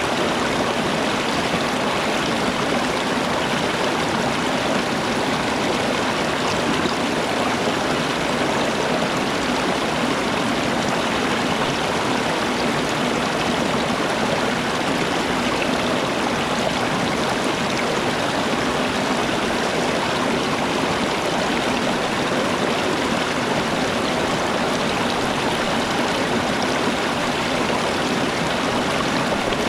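Steady rushing of running water, an even unbroken wash of sound like a stream.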